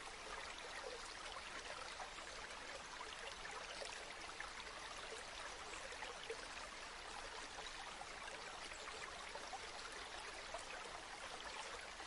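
River water flowing steadily, an even rushing with small scattered splashes and trickles.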